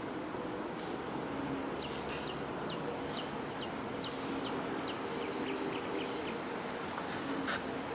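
Smooth-coated otters squeaking: a run of about a dozen short, high chirps, each sliding down in pitch, two to three a second, over a steady background hiss.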